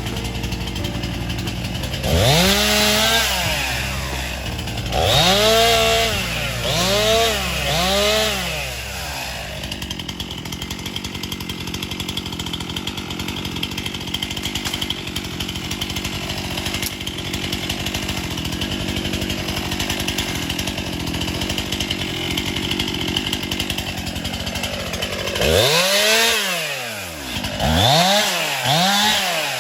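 Gas chainsaw idling, then revved up and down several times. It is held at a steady high speed for about fifteen seconds while cutting through a downed bigleaf magnolia, then revved in quick bursts again near the end.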